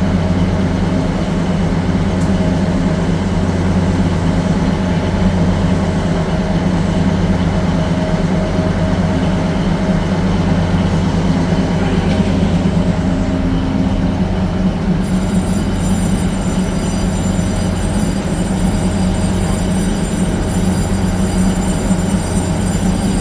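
Passenger train standing at the platform with its machinery running, a steady low hum. About fifteen seconds in, a set of thin high whining tones joins.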